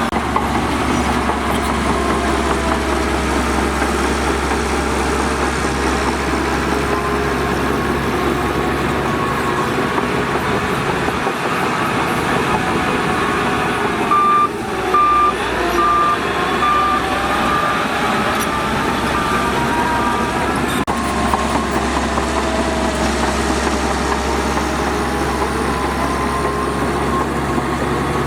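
Heavy diesel earthmoving machinery running steadily at work. About halfway through, a reversing alarm sounds for roughly six seconds, about ten evenly spaced beeps at one pitch.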